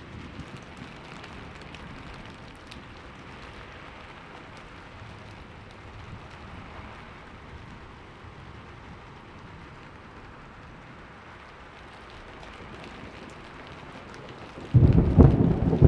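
Steady rain falling, then a sudden loud crack of thunder near the end that goes on as a low rumble.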